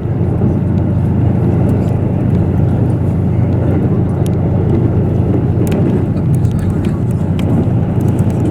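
KiHa 85 series diesel railcar running at speed: a steady low rumble of the diesel engine and wheels on rail, with a few faint clicks.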